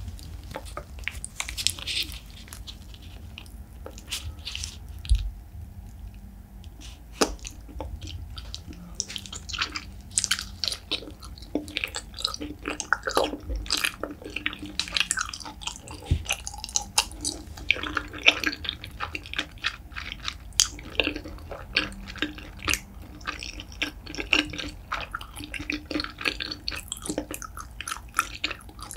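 Close-miked chewing with many short, wet mouth clicks at an uneven pace: a person eating chewy braised beef feet.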